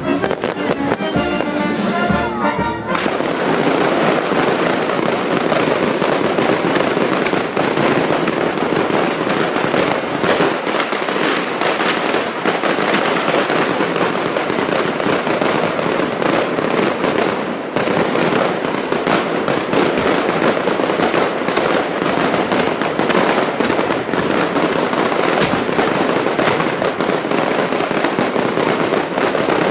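Band music for the first couple of seconds, then a dense, unbroken barrage of daytime firework bangs and crackling.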